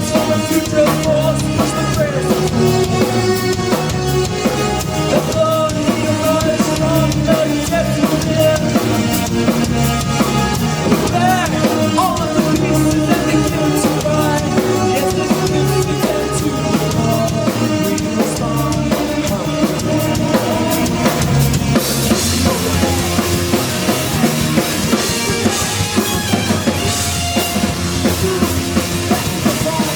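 Live band playing loud music with a driving drum kit, bass and sustained pitched lines; about two-thirds of the way in it gets fuller, with more cymbal and heavier bass.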